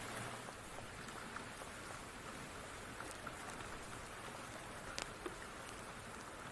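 Steady rain falling, an even hiss, with a few scattered sharp pops; the two sharpest come about five seconds in.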